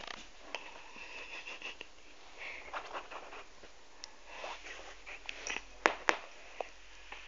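A pet cat playing close by: faint rustling and scuffling, with two sharp clicks about six seconds in.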